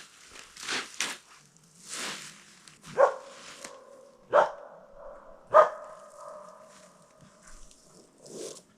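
A dog barks three times, each bark running on into a long, steady whine. Before the barks come a few short noisy rustles.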